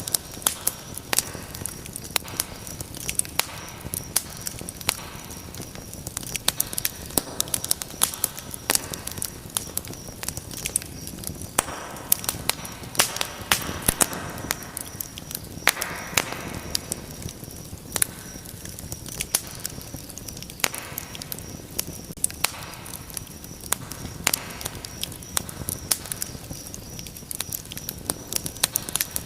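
Wood fire in a fireplace crackling, with many sharp irregular pops and snaps over a steady hiss of burning, swelling into a fuller rush of flame about halfway through.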